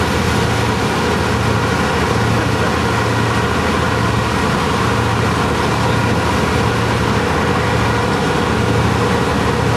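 A boat's engine running steadily, a low drone that swells and fades about once a second.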